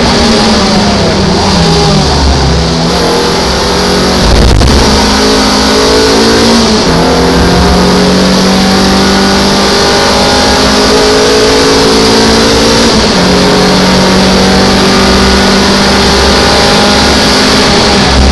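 In-cabin sound of an MGF race car at racing speed: its Rover K-series four-cylinder engine running hard, pitch climbing and dropping several times, over steady wind and road noise. A single thump about four and a half seconds in.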